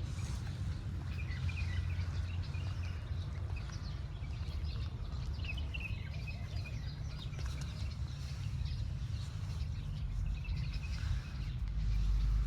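Small birds chirping in a few short spells, over a steady low outdoor rumble.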